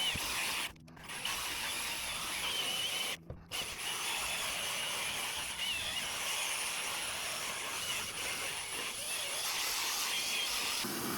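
Drill brush scrubbing a fabric car seat: a cordless drill spinning a stiff brush against oily upholstery, giving a steady whir and bristle scrub that breaks off briefly about a second in and again after about three seconds.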